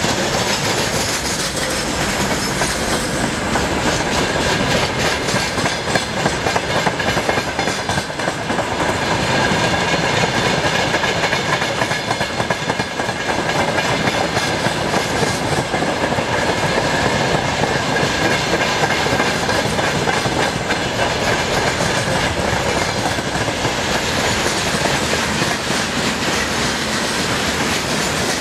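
Freight train wagons, mostly rail tank cars, rolling past at speed: the wheels clack in a steady rhythm over the rail joints under a continuous rumble, with a thin high ringing tone running through it.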